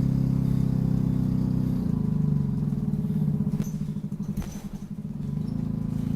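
Optare Solo single-deck bus's diesel engine running, heard from inside the cabin as a steady low hum whose pitch shifts about two seconds in and again near the end. Around the middle the engine quietens, and a couple of short knocks with faint high squeaks come through.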